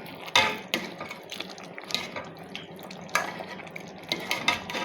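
A spoon stirring and knocking in a pot of chicken stew, with a few sharp clinks of metal on the pot.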